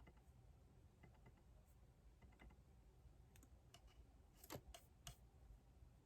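Faint, sparse typing on a computer keyboard: scattered key clicks, with a few louder clicks about four and a half to five seconds in.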